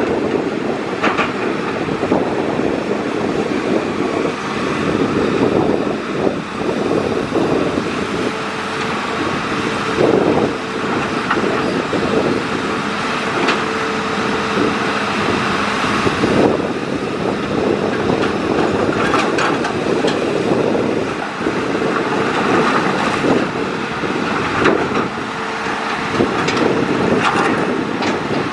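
Hitachi Zaxis excavator at work, its diesel engine and hydraulics running steadily, with a faint whine that comes and goes and scattered knocks and clanks.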